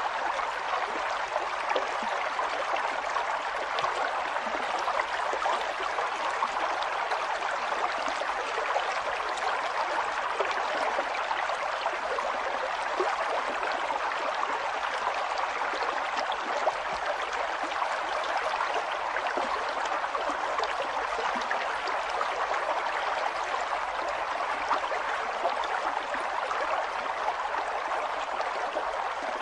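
River water flowing and babbling steadily over stones, a continuous rushing wash with small splashes and gurgles.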